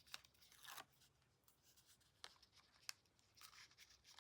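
Faint paper handling: short scratchy peels and a few light taps as the backing liner is pulled off strips of double-sided tear-and-tape on cardstock.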